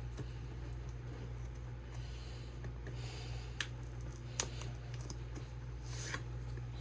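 Light handling noises of plastic and card: two short clicks about halfway through and a few brief soft rustles, over a steady low electrical hum.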